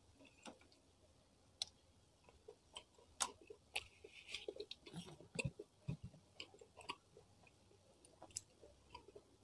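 Close-miked chewing of rice and fried fish, with scattered sharp wet mouth clicks and smacks, busiest in the middle and thinning out near the end.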